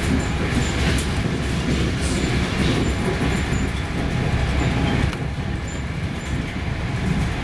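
Passenger train running along the track: a steady rumble with faint short high-pitched squeaks and light clicks.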